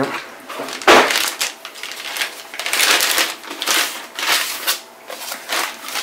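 Clear plastic anti-static bag crinkling as a motherboard in it is handled and laid flat, with a sharp knock about a second in.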